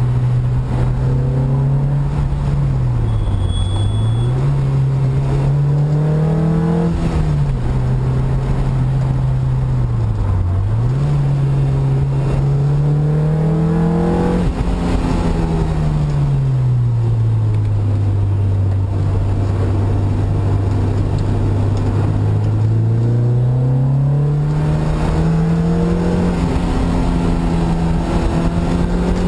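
Car engine heard from inside the cabin, its revs rising and falling: it climbs twice and drops off sharply after each peak, holds a low steady note for several seconds in the middle, then climbs again near the end.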